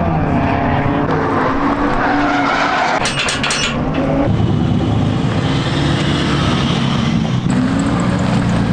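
Drift car engine running hard with tires squealing as the car slides, the engine pitch shifting up and down, and a brief sharper screech about three seconds in.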